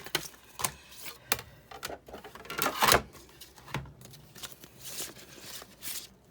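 Hard craft items being handled on a work table: a string of light clicks and knocks, with a louder scrape-like rattle about three seconds in.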